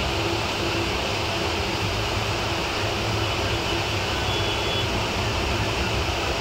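Steady rumble and rush of a passenger train running along the track, heard from inside the coach.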